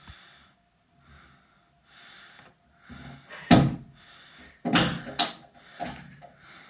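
A few loud knocks and clattering thuds of something hard being bumped: one about three and a half seconds in and a quick cluster around five seconds.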